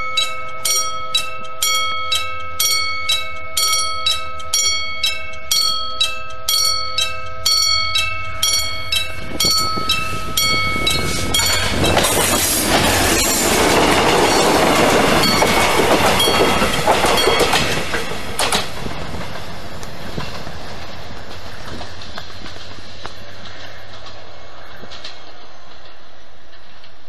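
Level-crossing warning bell ringing about twice a second, stopping about eleven and a half seconds in. A two-car Mugunghwa passenger train hauled by a diesel locomotive then passes close by for about six seconds, loud with engine and wheel clatter, and fades as it moves away.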